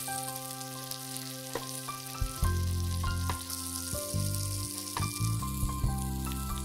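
Oil sizzling steadily under an egg-and-rice-paper tortilla frying in a nonstick pan, with a nylon spatula moving it now and then. Background music with piano-like notes and a bass line plays over it, the bass coming in a little after two seconds.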